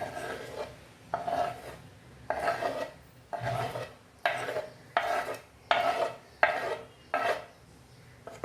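A kitchen utensil scraping against a dish in about ten short, even strokes a little under a second apart.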